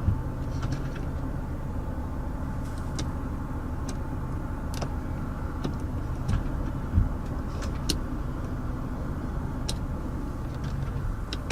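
Mazda 6 engine idling steadily, heard from inside the cabin, with several sharp clicks scattered through it.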